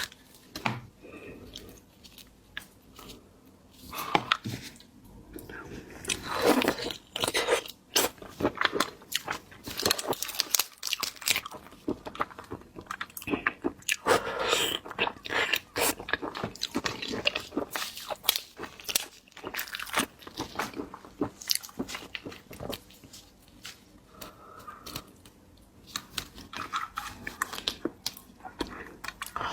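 Close-up eating sounds of shellfish: repeated crunching, cracking and wet chewing as shells are bitten and the meat is chewed, coming in irregular clusters of sharp clicks.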